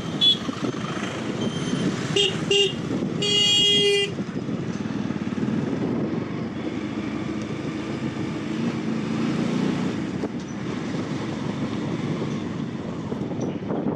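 Vehicle horns honking in road traffic: a few short toots in the first three seconds, then a longer blast ending about four seconds in, followed by steady traffic and engine noise.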